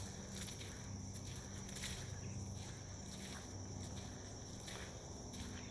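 Footsteps of a person walking on a sandy dirt path, a step roughly every three-quarters of a second, with a steady high insect trill behind.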